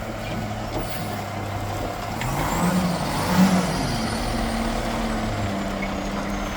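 Front-loader garbage truck's diesel engine running at a low, steady speed, then revving up about two seconds in and holding at a higher speed.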